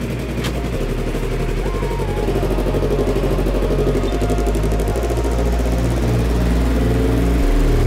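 Yamaha R25 sport bike's parallel-twin engine running, its sound wavering and growing slightly louder.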